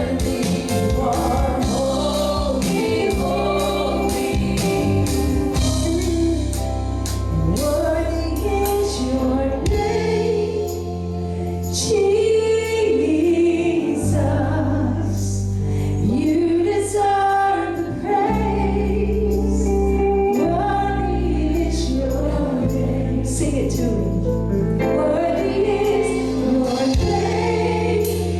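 Gospel worship song: a group of voices singing over a band with a bass line and steady percussion hits.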